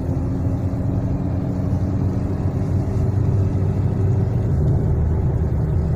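Lada Kalina 2's 21126 1.6-litre 16-valve engine pulling steadily under load, fully warm, heard from inside the moving car with tyre and road noise.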